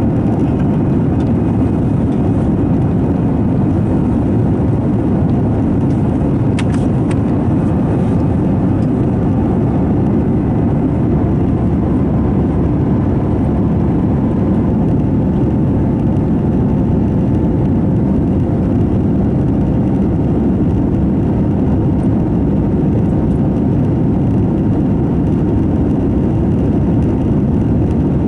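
Steady rumble of jet engine and airflow noise heard inside the cabin of an Airbus A321 in flight, deep and even, with a faint steady hum above it. A couple of faint clicks come about a quarter of the way in.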